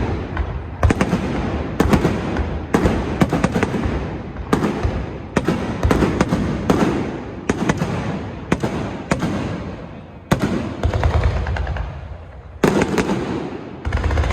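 Aerial fireworks shells bursting: sharp bangs about once a second, each trailing off in a low rumbling echo, with a short lull shortly before a final loud burst near the end.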